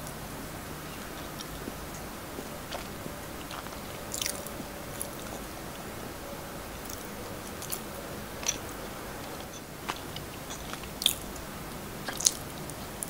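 Close-miked eating of a fried sesame rice ball (buchi): quiet chewing broken by scattered sharp, crisp crunches and mouth clicks, the loudest about four seconds in and twice near the end.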